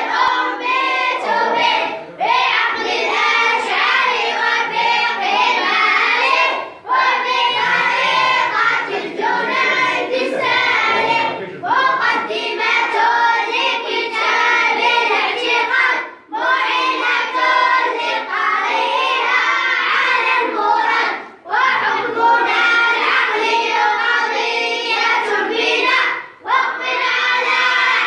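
A group of children singing or chanting together in unison, in phrases a few seconds long with brief pauses for breath between them.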